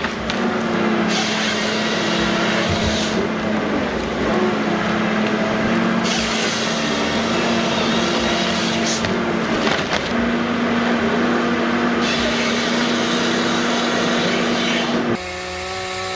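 Heavy machinery at work: a diesel engine hum under loud, rough wood-crushing and grinding noise that changes abruptly every few seconds. About a second before the end it gives way to a steadier, evenly pitched engine drone.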